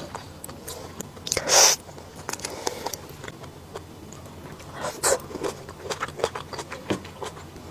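Close-miked eating: crisp bites and wet chewing clicks, with the loudest crunch about one and a half seconds in and another burst of crunching about five seconds in.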